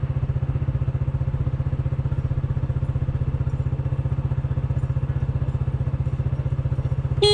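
Motorcycle engine running with a steady, rapid pulsing beat. Right at the end comes a short honk of the motorcycle's horn.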